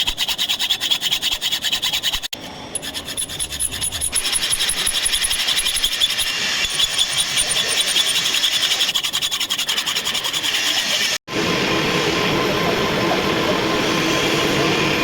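Metal being precision-ground on a machine, a rasping sound with a fast, even pulse. About eleven seconds in there is a cut to a steady machine running sound.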